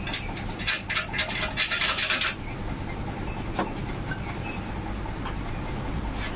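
A quick flurry of sharp metallic clicks and clinks for about two seconds, then a single click a second later, over a steady low rumble.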